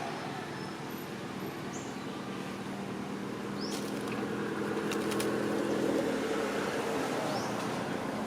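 A steady motor hum that swells about halfway through and eases off again, with a few brief high chirps and a quick run of clicks about five seconds in.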